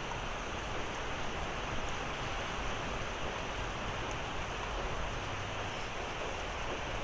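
Heavy rain pouring steadily in a thunderstorm, an even hiss with no single hits standing out.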